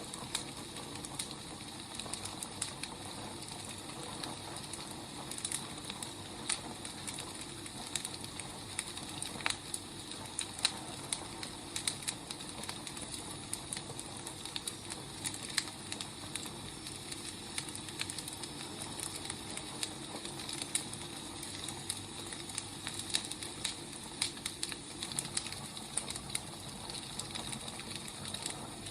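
Burning firewood crackling: a steady hiss with frequent irregular pops and snaps.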